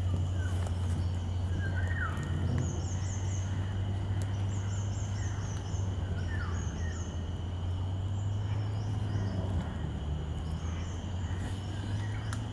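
Birds calling: several quick series of short, high, falling notes and a few lower sweeping calls, over a steady high drone and a low steady rumble.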